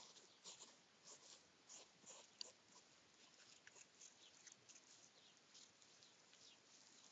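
Hedgehogs snuffling: faint, short, breathy puffs about twice a second, growing sparser in the second half.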